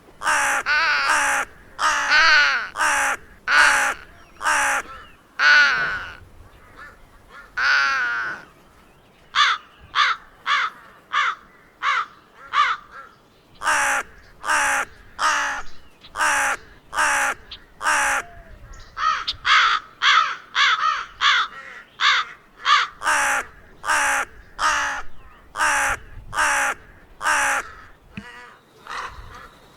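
Crow cawing over and over, a long series of harsh caws. The first few are longer and drawn out; from about a third of the way in they come shorter and quicker, in runs of several.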